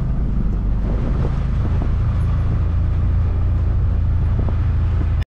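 A vehicle in motion: a steady, loud low rumble of engine and running gear with wind noise on the microphone. It cuts off suddenly near the end.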